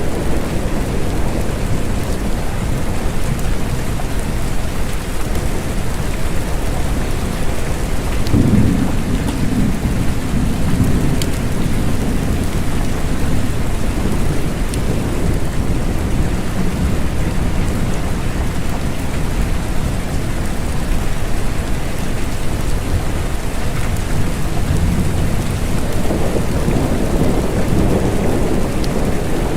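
Steady rain with low rolls of thunder, one swelling about eight seconds in and another near the end.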